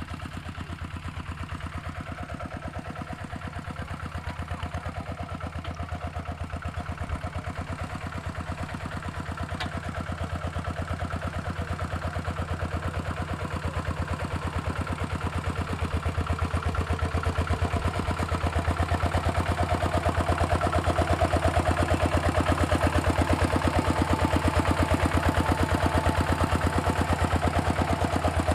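Walking tractor's single-cylinder diesel engine running with a rapid, even chug. It grows louder over the second half.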